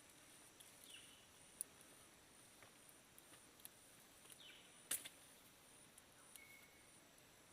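Near silence: faint forest ambience with a high, pulsing insect trill, a few short falling calls, and a couple of sharp clicks, the loudest about five seconds in. No machine is running.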